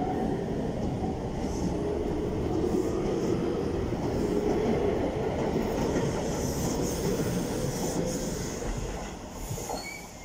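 Chiba New Town Railway 9100-series electric train pulling out of the station alongside the platform, its motors and wheels running loudly with a steady hum. The sound drops away near the end as the last car passes.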